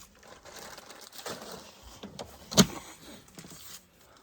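A single sharp knock about two and a half seconds in, amid light rustling and handling noise.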